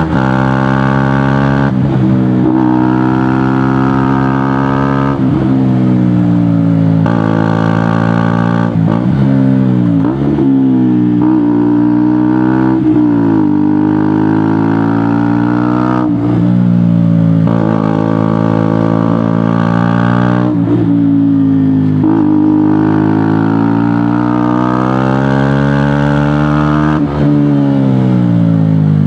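KTM Duke motorcycle engine with a GPR aftermarket exhaust, ridden hard. The engine note rises and falls over and over, and the pitch breaks off suddenly every few seconds as it shifts gear.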